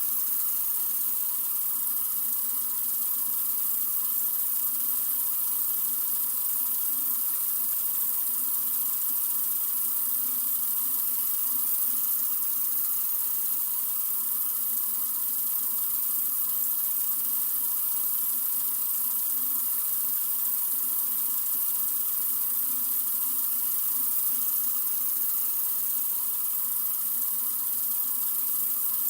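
Sink faucet running in a steady, unbroken stream: an even, hissy rush of water with no changes in flow.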